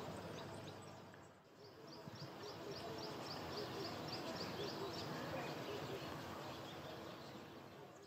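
African spotted creeper calling: a run of about a dozen short, thin, high notes, each sliding down in pitch, about three a second, starting about a second and a half in and stopping a little past the halfway mark, over a steady background hum of the surroundings.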